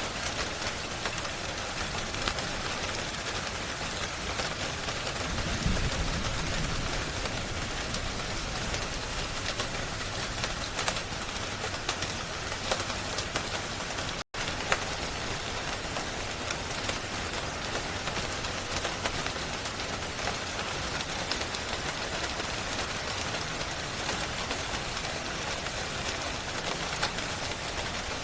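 Steady rain, an even hiss with scattered small crackles, as of a log fire burning. About halfway through, the sound cuts out completely for an instant, then carries on unchanged.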